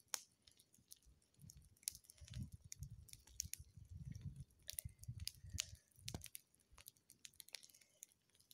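Faint crackling of a grass bonfire: many small irregular pops and snaps, with low muffled rumbles on the microphone underneath.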